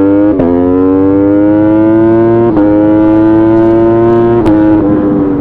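Motorcycle engine accelerating hard at full throttle, rising in pitch through each gear with three quick upshifts, then the revs falling away near the end as the throttle is eased off.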